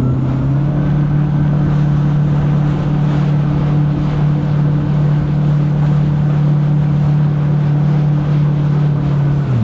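Personal watercraft (jet ski) engine running steadily at speed, a steady drone that drops in pitch near the end as the throttle eases, with rushing wind and water noise.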